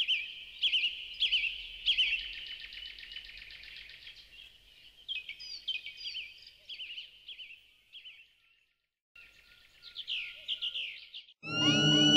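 Small birds chirping in quick repeated calls, with a short pause about nine seconds in. Music starts loudly near the end.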